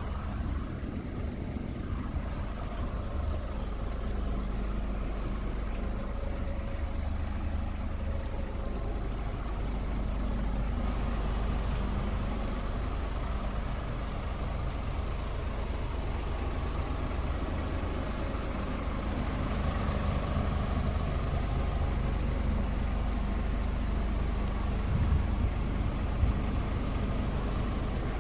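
Scania S500 truck's 13-litre six-cylinder diesel engine running steadily, getting a little louder partway through.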